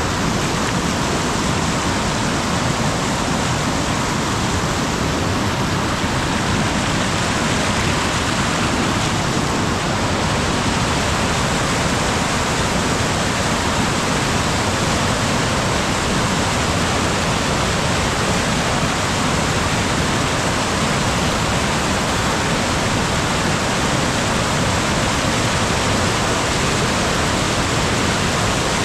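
Mountain stream flowing and splashing over rocks in a steady rush of water.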